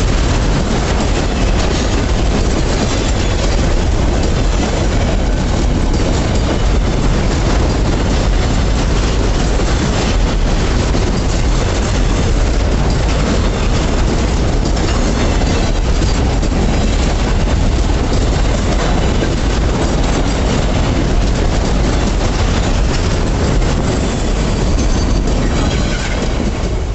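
Freight train rolling past at a level crossing, a steady loud rumble of wagons with clattering wheels on the rails.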